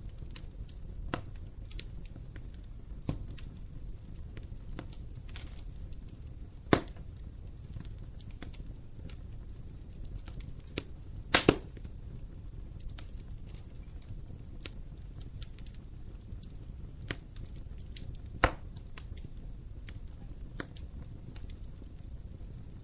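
Wood fire burning in an open fireplace: a low steady flame rumble with scattered crackles and sharp pops, the loudest a double pop about halfway through and single pops near a third and four-fifths of the way through.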